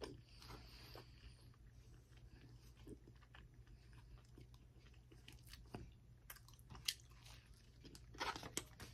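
Faint close-mic mouth sounds of someone chewing a soft biscuit: quiet smacks and small clicks, a couple of sharper ticks, and a slightly louder bit of chewing near the end.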